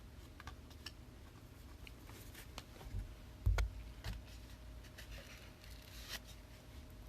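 Trading cards and their packaging handled on a table: scattered light clicks and rustles, with a low thump about three and a half seconds in and a faint steady hum beneath.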